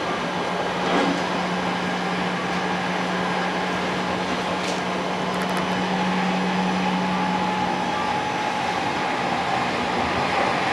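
Running noise of an Odakyu 60000-series MSE Romance Car heard from inside its deck: a steady rumble of the moving train, with a low steady hum that fades out about eight seconds in.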